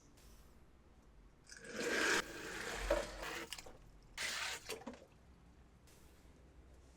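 Two bursts of rustling, crinkly handling noise: a longer one about one and a half seconds in, with a sharp knock near its end, and a short one about four seconds in.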